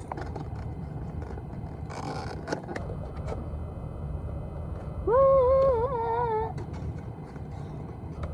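Steady low car rumble, with a short rustle about two seconds in. Midway through, a person hums a wavering "mmm" for about a second and a half while eating.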